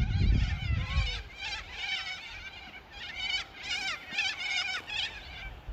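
Birds chirping and singing in quick, repeated warbling notes, with a low rumble in the first second.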